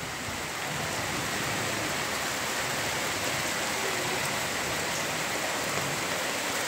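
Steady rain pouring down onto foliage and the ground, heard through an open window: an even, unbroken hiss.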